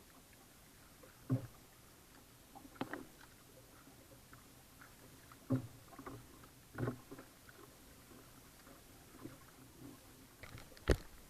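Paddling a Pelican Covert 120 kayak: a handful of separate knocks and splashes from the paddle and hull, a second or so apart, then a sharp click near the end.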